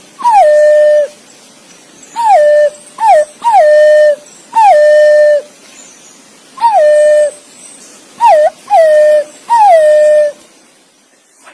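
Green pigeon (punai) giving its whistled call to its companions: about nine clear, mournful whistles in loose groups, each sliding sharply down and then holding a steady note.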